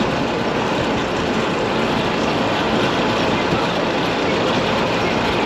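Steady running noise of a passenger tram on the move, an even mix of motor and rolling noise with no breaks.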